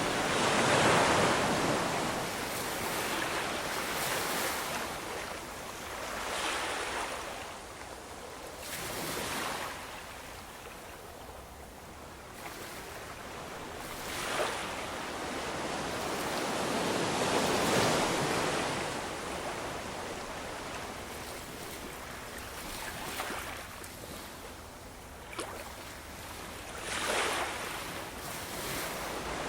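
Ocean waves breaking and washing ashore: a continuous rush of surf that swells and falls back, with a surge every few seconds, the strongest near the start and about two-thirds of the way through.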